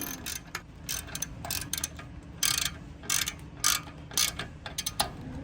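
Socket ratchet wrench clicking through a series of short strokes, about two a second and somewhat uneven.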